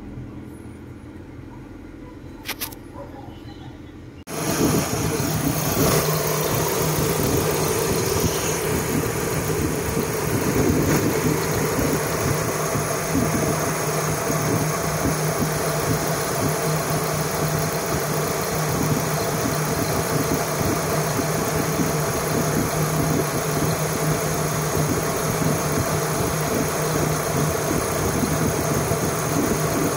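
Mitsubishi Lancer's four-cylinder engine idling steadily as it warms up on its first start after sitting for more than a year, waiting to reach normal temperature while the ECU relearns. It is faint at first, then suddenly much louder from about four seconds in, heard close to the engine bay.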